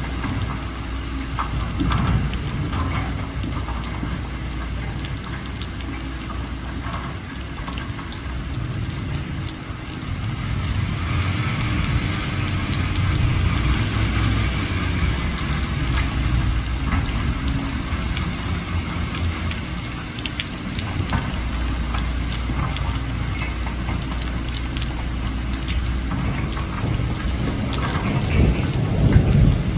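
Diesel engines of a backhoe and a stuck dump truck running steadily, a low rumble that swells a little about ten seconds in, under a steady hiss with scattered clicks.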